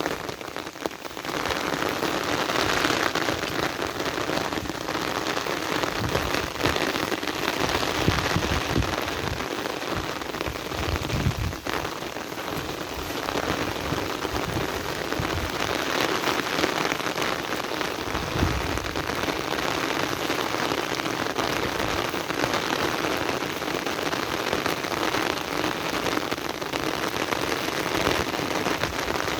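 Heavy rain falling steadily, a dense continuous hiss of drops on surfaces, with a few brief low rumbles underneath.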